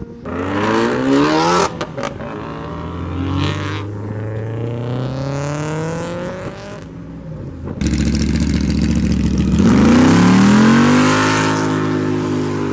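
Car engines accelerating hard as cars pull away. One engine climbs in pitch near the start, with a few sharp cracks about two seconds in, then keeps accelerating. A second, louder engine opens up about eight seconds in, its revs rising to a peak around ten seconds.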